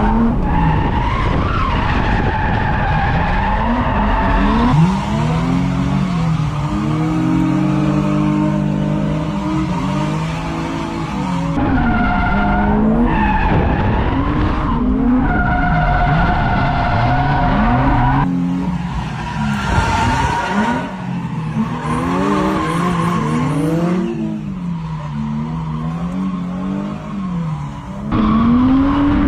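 Drift car engine revving up and down over and over, with the tires squealing in stretches as the car slides.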